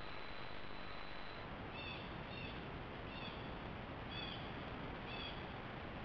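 A bird gives short chirping calls about once a second over a steady hiss of camera noise. A faint high whine runs under the hiss for the first second and a half.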